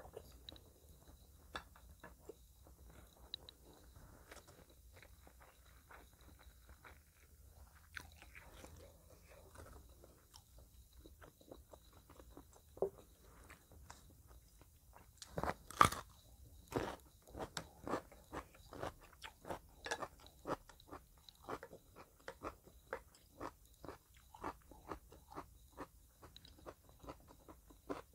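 Close-miked chewing of spicy meatballs and rice, heard as mouth clicks and smacks. Sparse and faint at first; from about halfway, after one louder click, it settles into a steady run of about two smacks a second.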